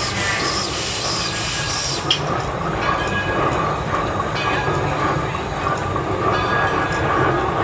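Train running on the rails, with a steady high wheel squeal over the rumble; a hiss stops about two seconds in.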